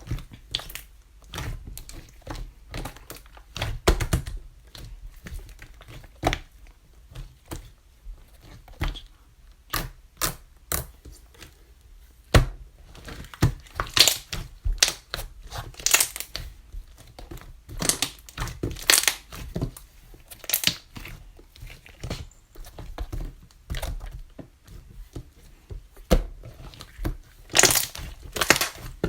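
Rainbow slime being squished and stretched by hand, giving irregular sharp pops and clicks, several a second, some louder than others.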